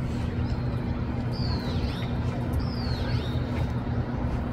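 Steady low hum and rumble of the surroundings, with a bird calling twice in the middle, each call a quick high downward sweep.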